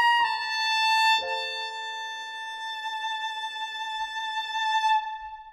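Violin holding a long final note over a sustained chord accompaniment that changes twice early on, the music fading out about five seconds in: the end of the song.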